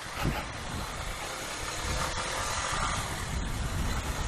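CPI DTR 150 motorcycle running on the road, its engine under a steady rush of wind over the microphone, with the noise swelling a little in the middle.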